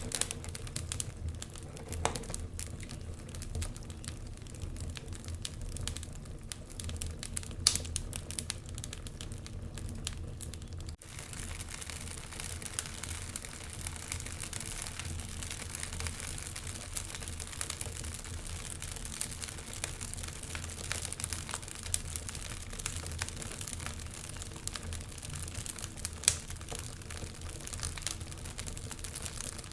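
Wood fire crackling in a fireplace: a steady stream of small snaps and pops over a low rumble of flame, with a few louder pops. About eleven seconds in, the sound dips for an instant and comes back with more hiss.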